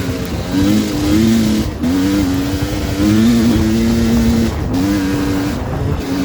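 Dirt-bike engine running hard, its pitch climbing and then dropping back several times as the rider works the throttle through the gears.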